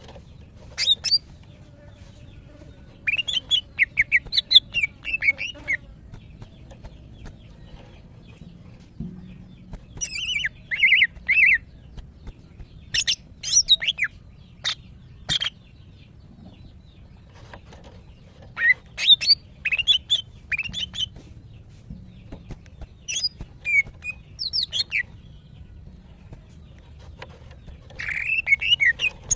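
Female greater green leafbird (cucak ijo) calling in about seven bouts of quick, short chirps and ticks, with pauses of a few seconds between them. These are the calls of a female in breeding condition calling for males.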